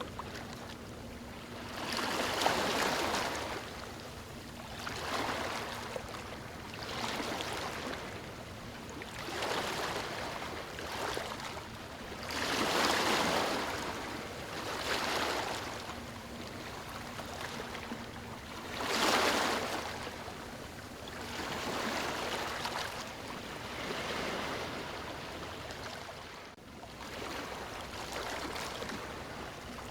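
Small waves breaking and washing up a beach, one after another every two or three seconds, with the biggest surges about two seconds in, near the middle and about two-thirds of the way through.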